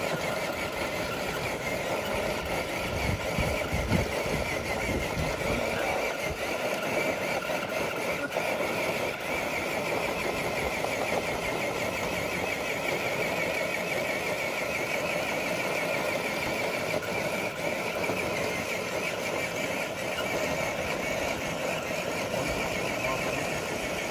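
Electric motor and geartrain of an RC crawler truck whining steadily as it drags a weighted sled, holding an even pitch under load.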